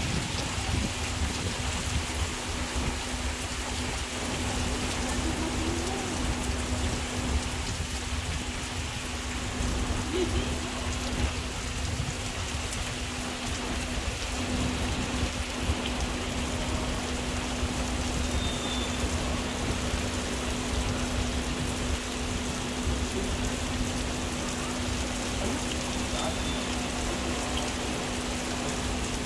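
Steady rain falling and pattering on surfaces at an even level, with a constant low hum underneath.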